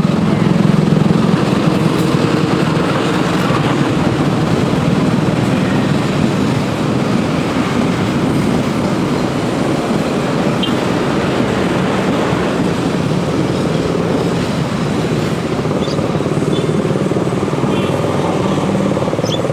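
A diesel-hauled passenger train running by: the steady rumble of the locomotive engine and rolling coaches. A few brief high squeaks come through near the middle and toward the end.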